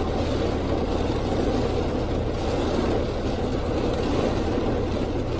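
Steady rushing road and wind noise with a low hum, heard inside a moving car.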